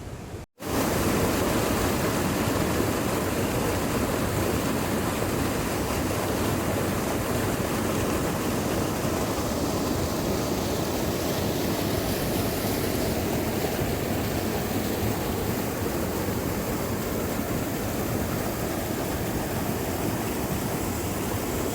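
Steady rush of flood water pouring over a waterfall, after a brief cut to silence about half a second in.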